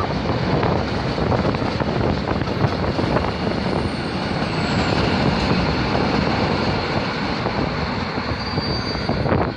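A train passing close by: a steady rumble of wheels on the rails with dense clatter.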